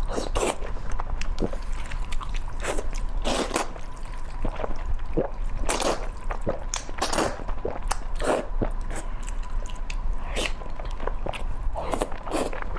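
Close-up eating sounds: a person biting and chewing food, with wet, squishy mouth noises in an irregular run of short strokes, over a steady low hum.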